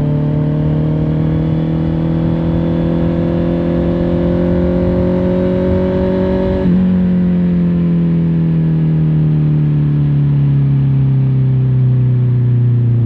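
Honda CBR650R's inline-four engine heard from on the bike: the engine note climbs slowly under light throttle, then about halfway through steps up suddenly and falls steadily as the bike slows, over wind and road rumble.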